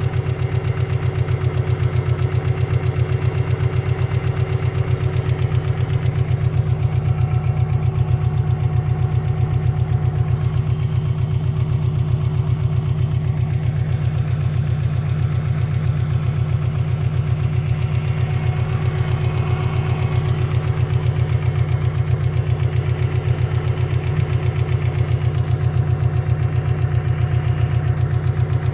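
Car engine idling cold with a fast, even knock running through the steady engine note: the knock that shows up while the engine is cold.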